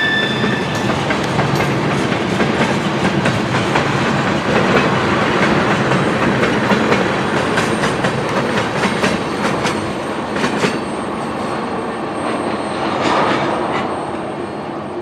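Train rolling past close by: a steady rumble and rattle of steel wheels on rail, with many sharp clicks as the wheels cross rail joints. A horn's last note dies away in the first moment, and the train noise fades a little near the end.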